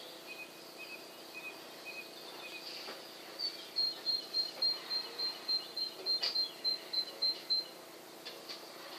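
A small bird calling: a few short, lower piping notes in the first couple of seconds, then a run of short high chirps, about four a second, from about three and a half to seven and a half seconds in. A faint steady hum lies under it.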